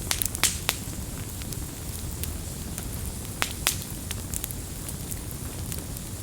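Wood campfire burning with a steady low rumble and irregular sharp crackles and pops, a cluster of louder pops in the first second and two more a little past the middle.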